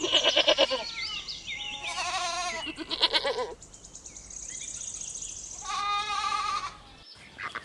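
Goats bleating: about four quavering bleats of differing pitch, with a pause before the last one.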